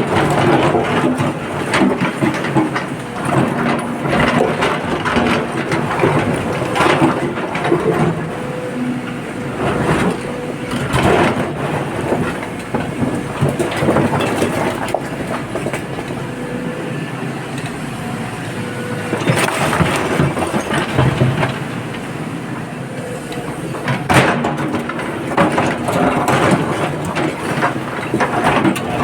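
Excavator working at loading rock into a dump truck: its diesel engine runs steadily under repeated clattering knocks of rock and steel.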